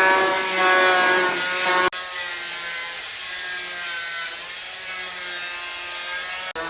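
A small motor-driven tool running with a steady whine whose pitch sags a little and recovers, broken by sudden cuts about two seconds in and near the end.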